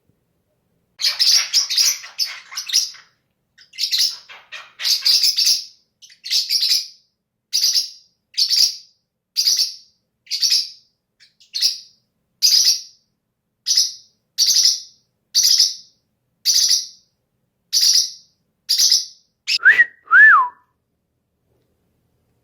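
Small pet parrot chirping: sharp, high-pitched chirps repeated about once a second, then near the end two louder whistles that each drop in pitch.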